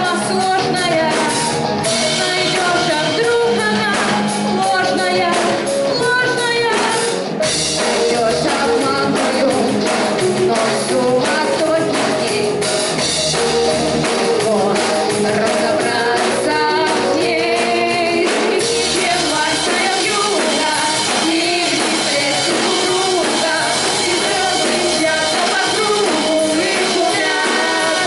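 Live rock band playing: drum kit, bass and electric guitars, with a melodic lead line that bends in pitch over the steady beat.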